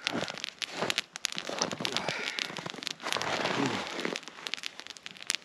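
Wood campfire crackling, with frequent sharp snaps and pops.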